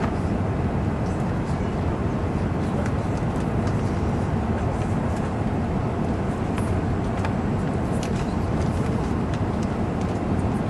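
Steady low rumble of cabin noise inside an Airbus A380 during takeoff, with faint light clicks scattered through it.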